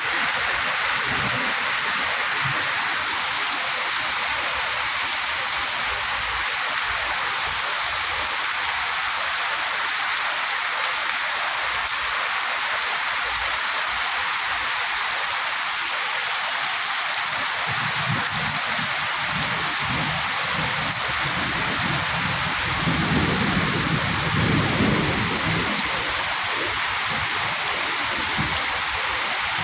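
Heavy thunderstorm rain pouring down steadily in a dense hiss. Low thunder rumbles through the second half, loudest about three-quarters of the way through.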